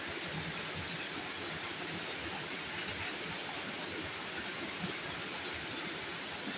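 Steady heavy rain, an even hiss of falling water, with a short, high click about every two seconds.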